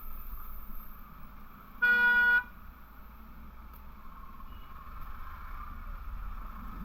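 A single short vehicle horn honk, one steady tone about half a second long, sounding about two seconds in over continuous riding noise of wind and road rumble.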